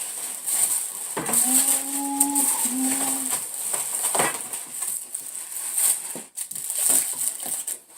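Packaging rustling and crinkling as a boxed guitar is unpacked by hand. About a second and a half in there is a short pitched tone in two parts.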